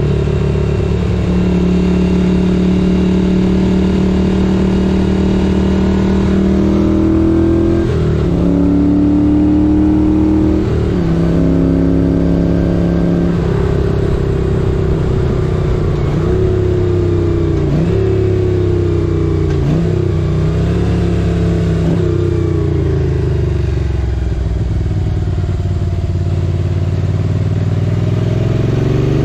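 1978 Moto Guzzi 850 Le Mans air-cooled transverse V-twin running under way: it holds a steady pitch for a few seconds, then revs up and down through a string of throttle and gear changes, drops away in pitch, and climbs again near the end.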